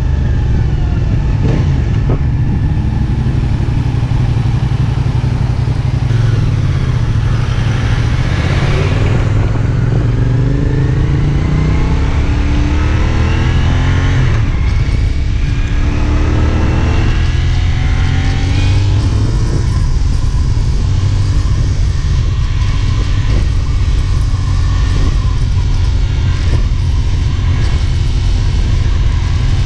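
CFMoto 450SR S motorcycle's parallel-twin engine running while riding, with steady wind rush at the microphone. Between about six and twenty seconds in, the engine note rises and falls in two sweeps as the bike speeds up and slows.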